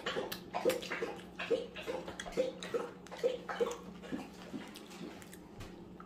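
Wet mouth sounds of chewing and lip-smacking: short smacks about two to three a second, dying away after about four and a half seconds.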